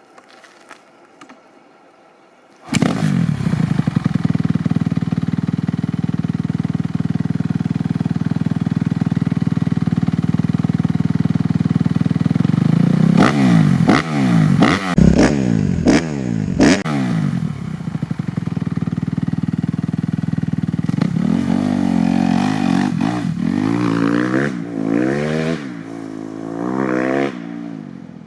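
Kawasaki KX250F's single-cylinder four-stroke engine through a full FMF 4.1 RCT exhaust. It comes in loudly about three seconds in and runs steadily. It is then revved in several quick blips, and in another run of rising and falling revs near the end.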